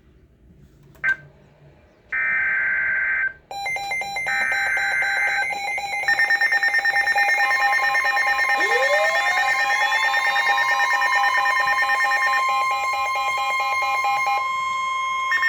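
Weather radio alert: two short bursts of data tones, then several steady alarm tones sounding together, including a steady tone near 1 kHz typical of the NOAA warning alarm tone. A tone slides up to join them about eight and a half seconds in.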